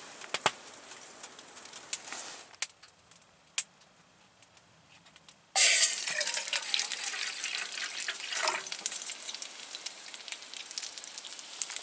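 Burgers frying in a pan. Faint crackles and a single click over near quiet, then a loud sizzle starts suddenly just past halfway and keeps going.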